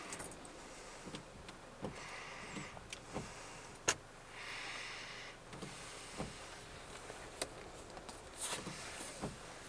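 Scattered light clicks and knocks, with a short hiss about four and a half seconds in.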